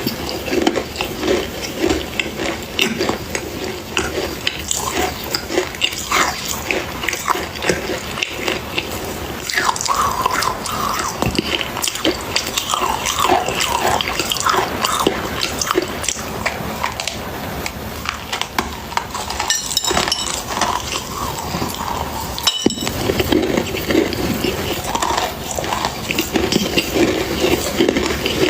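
Close-up biting and chewing of dry clay: a continuous crackle of small crunches.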